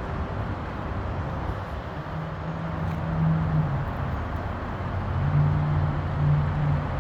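Garbage truck engine running, with a steady low hum that grows louder twice, about two seconds in and again about five seconds in.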